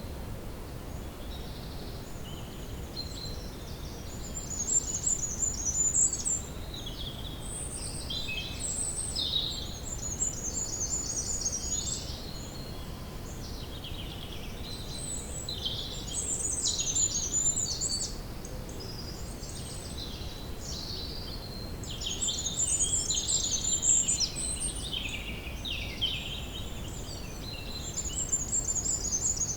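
Several songbirds singing and chirping at once, busy overlapping trills and twitters, over a faint steady hiss of woodland ambience.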